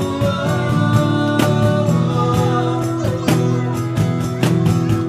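Band music in an instrumental passage: strummed guitar over sustained chords with a steady drum beat.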